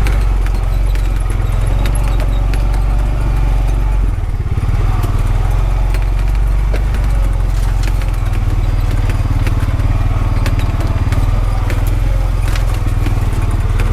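Honda Pioneer 520 side-by-side's single-cylinder engine running steadily as it drives slowly on a rough logging road, with many small rattles and clicks from the vehicle. The engine note shifts briefly about four seconds in.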